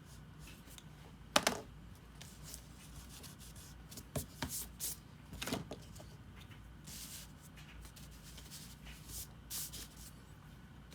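Drawing strokes on paper: short scratches and light taps, with a sharp tap about a second and a half in and a cluster of strokes around four to six seconds in.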